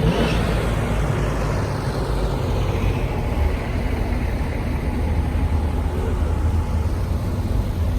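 Car engines running as vehicles drive past: a steady low rumble with tyre and road noise, and a brief surge of noise right at the start.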